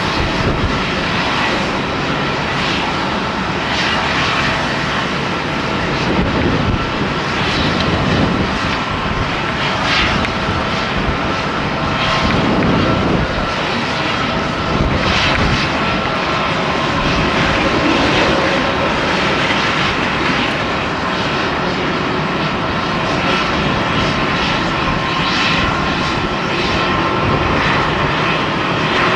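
Asiana Airlines jet airliner's engines running at high power during its takeoff, a loud, steady rush with a few high whining tones held through it. Gusts of strong wind buffet the microphone now and then.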